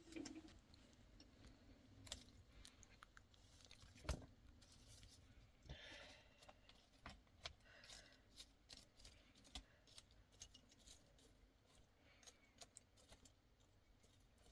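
Near silence, broken by scattered faint clicks and taps and one sharper knock about four seconds in.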